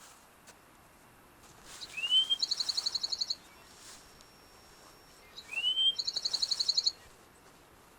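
A songbird singing the same short song twice, about three and a half seconds apart. Each song is a rising whistled slur followed by a fast, high trill of about a dozen notes.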